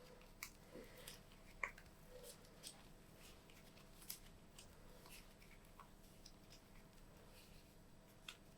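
Faint, scattered sticky clicks and small pops of glossy slime being worked by hand, irregular and a few a second, with slightly sharper clicks about a second and a half in and about four seconds in.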